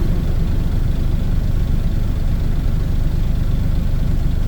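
Heavy diesel truck engine running steadily with a continuous low rumble, heard from inside the dump truck's cab.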